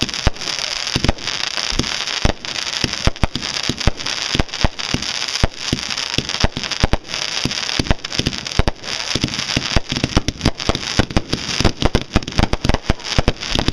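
Fireworks going off in a fast, uneven barrage of sharp bangs over a continuous hissing crackle. The bangs come thicker toward the end.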